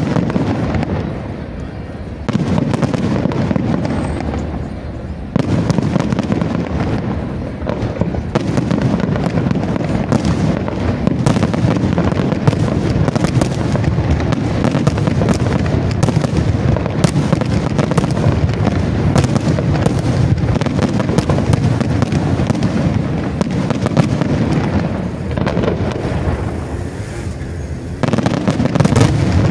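Aerial fireworks display: a dense, continuous barrage of shell bursts and crackling, overlapping bangs with no pause, getting louder in steps a couple of seconds in, again about five seconds in, and near the end.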